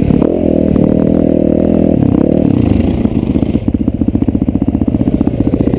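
Dirt bike engine running on a steady throttle, briefly dipping in pitch at the start, then the throttle comes off about halfway through and it drops to low revs with a slow, even putter as the bike rolls along.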